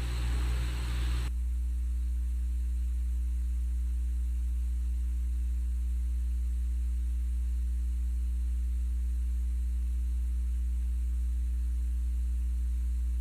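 Steady low electrical hum with a faint hiss. The room sound cuts off about a second in, leaving only the hum.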